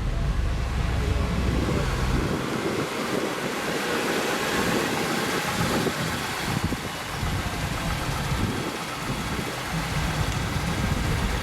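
Car engines running, with a low rumble that drops away about two seconds in, over steady wind noise on the microphone.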